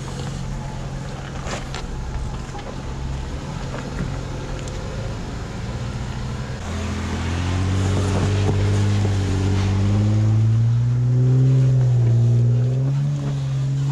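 Jeep Wrangler engine running steadily at low revs, then from about halfway through growing louder and climbing slowly and steadily in pitch as it takes load on a rock ledge climb.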